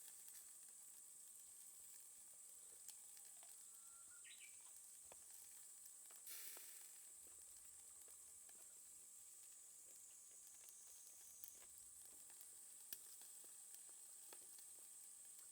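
Faint steady sizzling with scattered small crackles from a charcoal fire in a small fire box. A brief chirp is heard about four seconds in.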